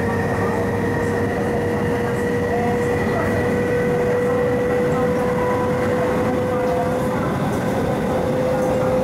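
Inside a passenger car of an MTR East Rail Line MLR electric multiple unit running along the line: a steady whine from the drive over the running noise, its pitch creeping slightly upward as the train gains speed.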